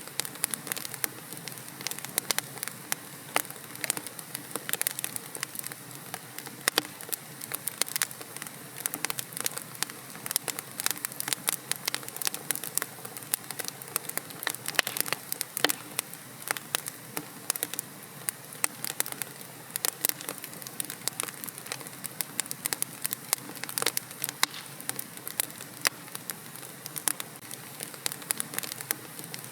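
Wood fire burning in a fireplace, with frequent irregular crackles and pops over a steady hiss of the flames.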